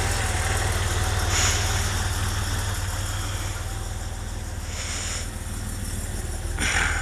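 1989 Porsche 930 Turbo's air-cooled, turbocharged flat-six idling steadily at a little under 800 rpm while it warms up from a cold start. Three brief hissing sounds come over the hum.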